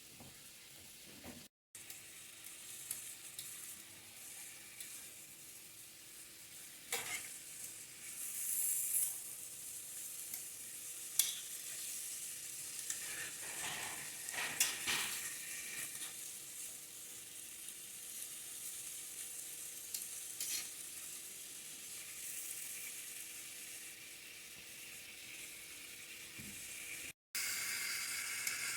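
Entrecôte steak frying in a pan over a wood fire: a steady sizzle with scattered pops and crackles. The sound cuts out for an instant about a second and a half in and again near the end.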